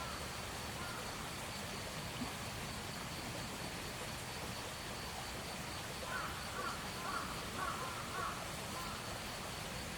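Outdoor ambience with an insect chirring steadily and high throughout; from about six seconds in, a bird gives a quick run of about six short calls.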